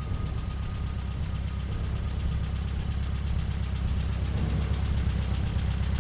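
A vehicle engine idling, a steady low running rumble with rapid even firing pulses that swells slightly toward the end.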